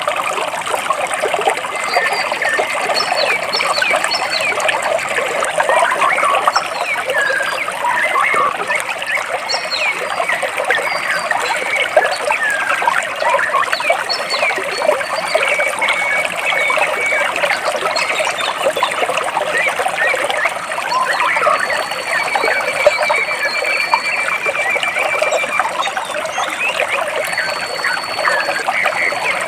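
Water trickling and gurgling between rocks, with birds chirping over it; a rapid high trill comes in about halfway through and again later on.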